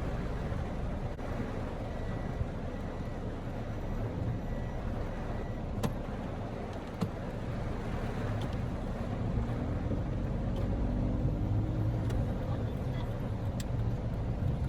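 Small car driving through a heavy typhoon downpour, heard from inside the cabin: a steady rush of rain and road noise over a low engine and tyre rumble, with scattered sharp ticks of rain striking the car.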